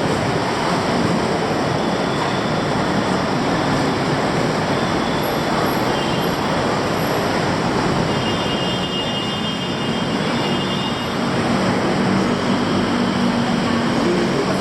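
Loud, steady city traffic noise, a continuous rush of passing vehicles, with faint high whines about halfway through and an engine hum rising near the end.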